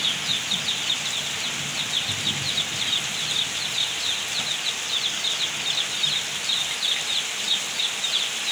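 Heavy rain pouring steadily: an even hiss with a dense patter of sharp, high drop ticks.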